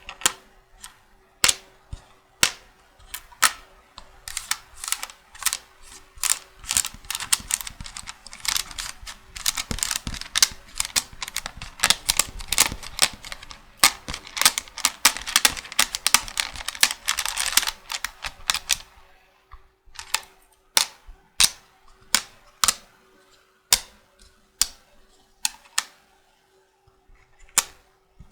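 Magnetic checkers pieces clicking and tapping in sharp clicks: a fast, dense run of clicks through the middle, then single clicks about a second apart near the end.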